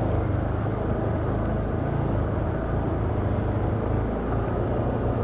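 Can-Am Outlander ATV engine running steadily under way, a constant low drone with no change in pace.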